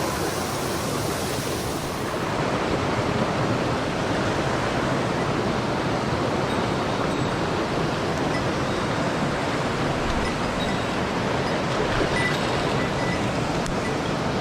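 Mountain stream rushing over rocks: a loud, steady, unbroken rush of water.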